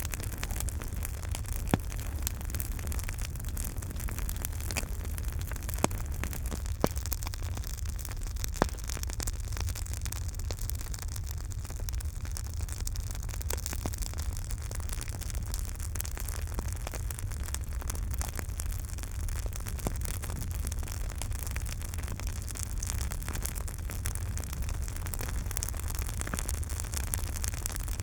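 Campfire burning: a steady hiss and low rumble under dense crackling, with a few louder sharp pops in the first nine seconds or so.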